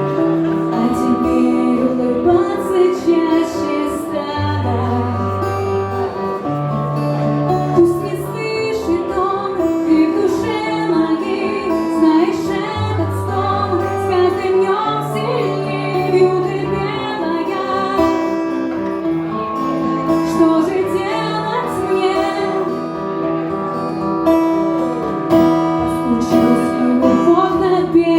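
A woman singing a slow song over an instrumental accompaniment of long held bass notes.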